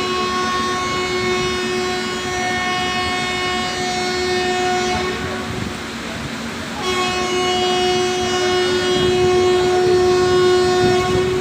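Arriving train's locomotive air horn sounding two long blasts of about five seconds each, with a short gap between them, over the rumble of the moving train.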